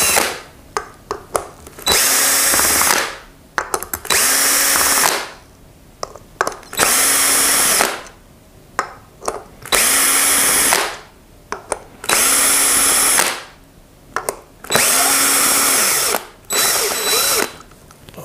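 Cordless drill-driver taking out the screws of an LPG reducer's cover: about seven short runs of a second or so each, the motor winding up and down every time, with small clicks of screws and metal parts in between.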